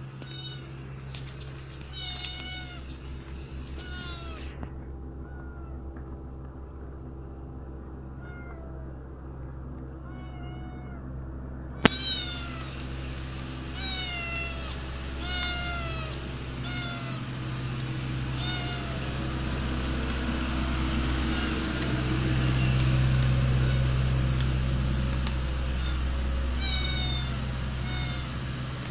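Kitten meowing over and over, short high-pitched calls every second or two, many falling in pitch, over a steady low hum. One sharp click comes about halfway through.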